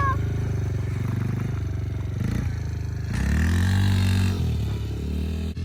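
Small four-stroke engine of a kids' mini quad or pit bike running near idle, revved up once about three seconds in and then easing back down.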